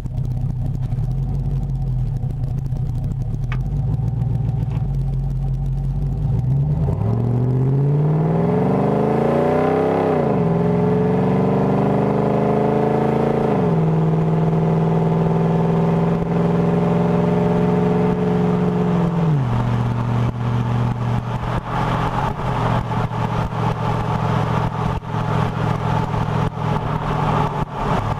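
Chevy truck V8 through short-tube headers and a 3-inch cat-back with a Summit Racing muffler: idling, then revved up twice, held at a steady higher rpm for about five seconds and dropped back to idle. Over the idle near the end the microphone adds crackling pops.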